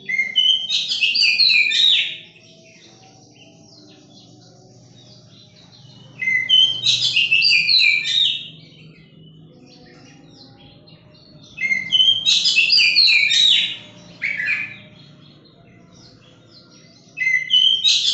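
Oriental magpie-robin (kacer) singing in four loud phrases about every five to six seconds. Each phrase lasts about two seconds: it opens on a lower note, then runs into a quick, varied jumble of high whistles. A faint low hum sits underneath.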